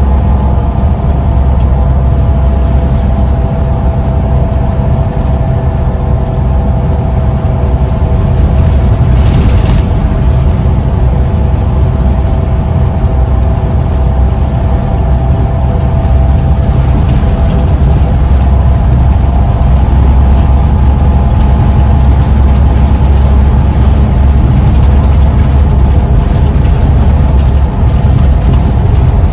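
Scania Omnicity single-decker bus on the move, heard on board: a heavy diesel engine rumble with a steady whine running above it.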